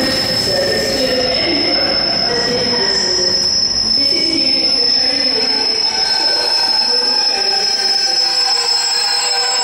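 Train moving on the rails with its wheels squealing in a steady, high-pitched tone over the running noise.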